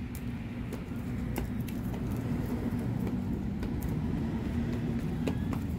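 A motor vehicle engine running nearby: a steady low rumble and hum that swells slightly partway through, with a few faint clicks over it.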